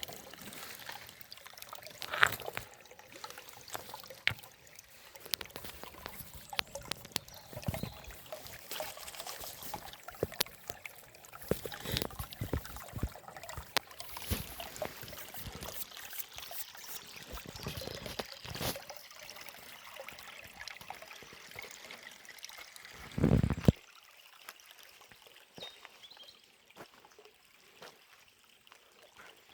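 Shallow forest stream trickling and gurgling over stones, with many small uneven splashes. Near the end a louder, deeper gurgle breaks off suddenly, leaving a fainter trickle.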